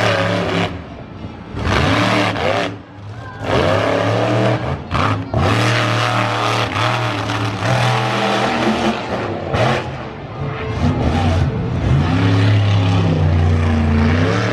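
Monster truck engine revving hard in repeated bursts, the throttle lifting briefly and coming back on several times, the pitch sweeping up with each burst.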